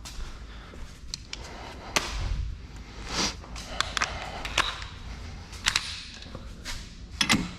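Scattered metallic clicks, taps and knocks of tools being handled and fitted under the car, a few a second at irregular intervals.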